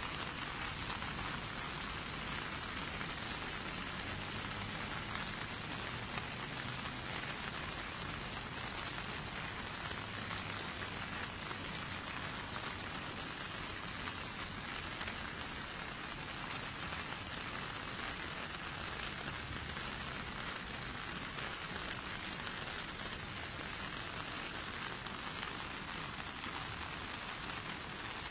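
Steady, even rushing noise of water that does not change.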